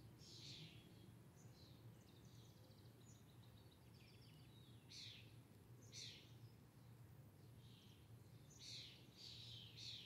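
Birds chirping: short, high calls that sweep downward, one every second or so, with a few quick trilled runs between them. Under the calls is a faint, steady low hum.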